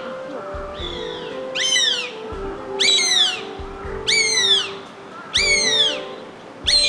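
Juvenile northern goshawks calling back and forth: a series of high, downslurred screams, each about half a second long, repeating about every second and a quarter.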